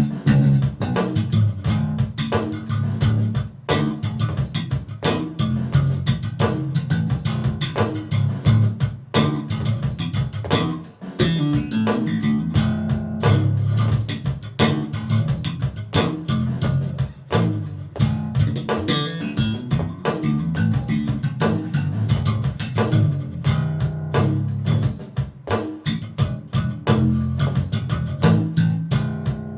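Mike Lull MV5 five-string electric bass, 35-inch scale with a .125-gauge low B string, played as a busy line of plucked notes with sharp attacks, mostly low in the register.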